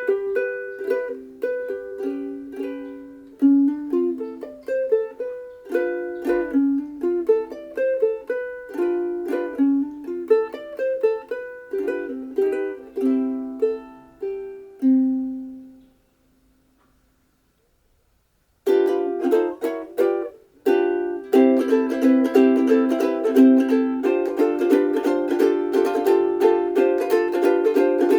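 Sumi UK-D3M soprano ukulele, a Ditson-style body of Honduras mahogany, played solo. A melody of single picked notes runs for about fifteen seconds, and its last note rings out into a couple of seconds of silence. Then come strummed chords, soon settling into a fast, steady strum.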